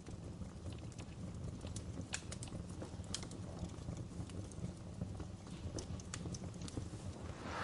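Wood campfire crackling: sharp irregular pops and snaps over a steady low rumble of burning, with a brief louder burst near the end.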